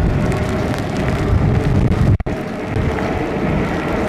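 Rain and wind noise with wet tyre hiss from a moving e-bike, with heavy low rumble of wind on the microphone. The sound cuts out for a moment about halfway through.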